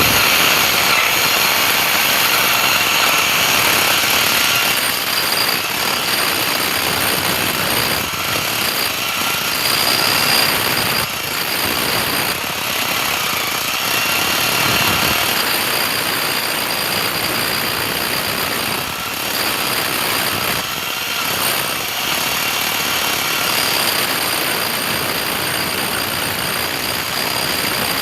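A power tool running loudly and steadily, with a few brief dips in level.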